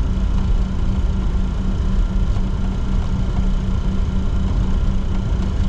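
Steady cockpit drone of a Bombardier Challenger 604 taxiing with its two turbofan engines at idle, with a constant low hum running under it.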